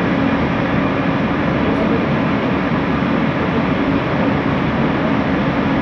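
Bombardier Innovia ART 200 light-metro car in motion, heard from inside: steady running noise of wheels on rail and the linear induction motor, with a constant low hum.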